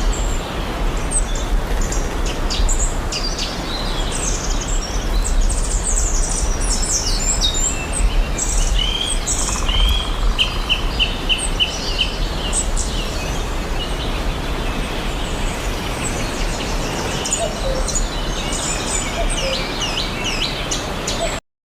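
Several songbirds chirping and trilling in quick, overlapping calls over a steady rushing background noise with a low rumble. Everything cuts off abruptly near the end.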